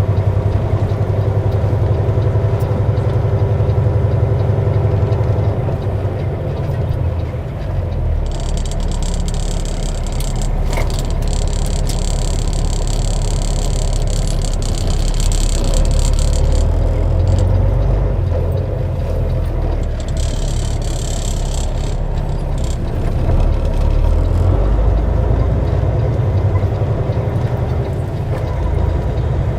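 Semi truck's diesel engine running with a steady low rumble, heard from inside the cab. A high hiss comes in twice, first for about eight seconds and later for about two seconds.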